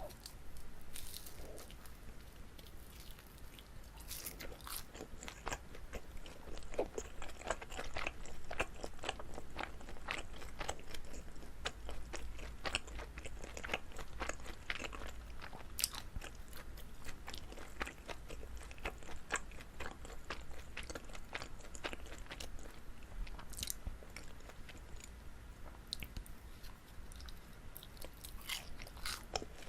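Close-miked chewing of sticky, chewy rice cake filled with gondre greens: many quick wet clicks and sticky smacks as the dough pulls apart between the teeth.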